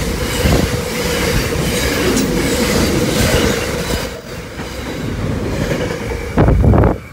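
Container freight train wagons rolling past at speed: steady wheel-on-rail noise with a steady humming tone, fading as the last wagons clear about four seconds in. Near the end comes a short, loud, low burst.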